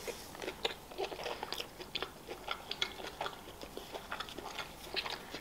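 Close-up biting and chewing of a pizza slice: a string of short, irregular mouth clicks and crackles, several a second.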